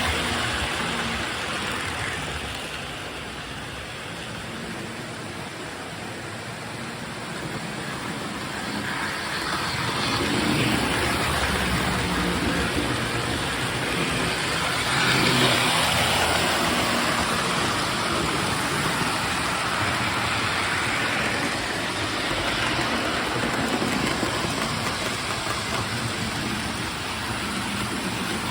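Postwar Lionel O-gauge electric trains running on three-rail track: a steady motor hum and wheel rumble that fades for a few seconds, then grows louder as a train comes near, loudest about halfway through.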